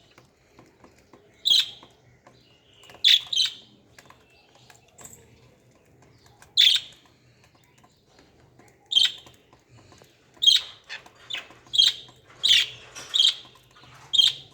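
Lovebirds calling with short, sharp, high-pitched chirps, spaced a few seconds apart at first, then coming about once a second in the last few seconds.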